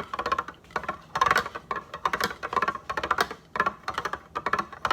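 Small hard objects clattering and clicking: a dense, irregular run of light taps and knocks.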